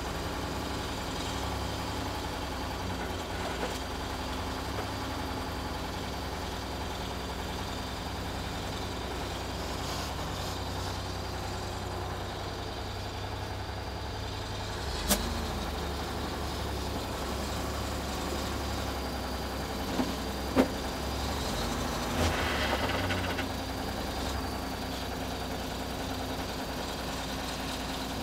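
An engine running steadily, with a few sharp knocks partway through and a short rougher burst of noise a little later.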